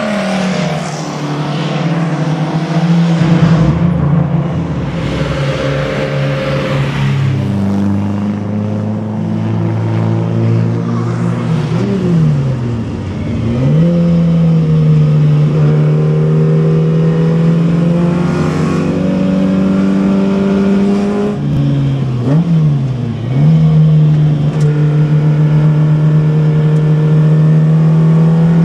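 Classic Alfa Romeo race car's engine heard from inside the cabin at track speed, holding steady high revs under wind and road noise. Twice, about 12 and 22 seconds in, the revs fall sharply and climb straight back, as when lifting off and changing gear into a corner.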